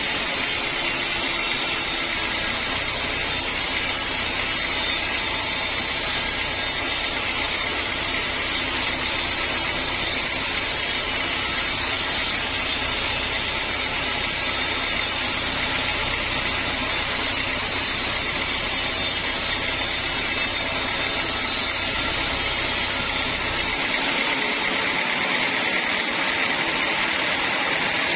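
Sawmill machinery running steadily: a motor's low hum under a constant hiss. The low hum drops away about four seconds before the end while the hiss goes on.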